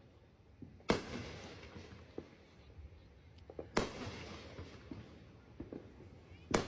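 Fireworks going off: three sharp bangs about three seconds apart, each trailing off in a rumbling echo, with fainter scattered pops in between.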